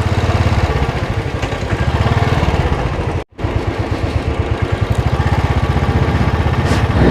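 Royal Enfield motorcycle engine running under way, a fast steady low pulsing of exhaust beats. The sound drops out completely for a split second about three seconds in.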